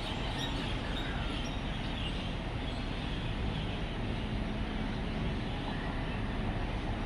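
Steady hum of road traffic with many birds chirping over it as they gather at an evening roost; a faint engine drone rises a little above the traffic in the middle.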